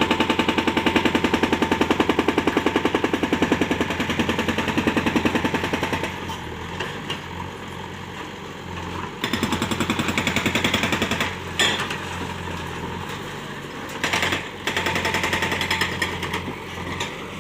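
Heavy diesel engine running hard with a rapid, even pulsing. It eases off about six seconds in, then surges louder a few times.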